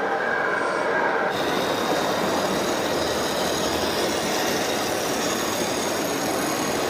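Small electric motor and gears of a toy vehicle whirring steadily, with a thin high whine joining about a second in.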